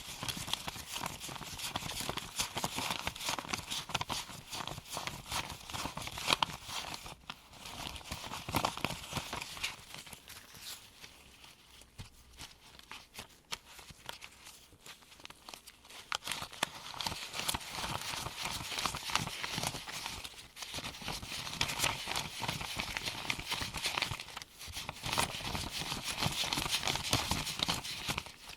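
Gloved hands counting US $1 paper bills from one hand to the other: a fast run of crisp paper flicks and rustles, which quiets for a few seconds in the middle.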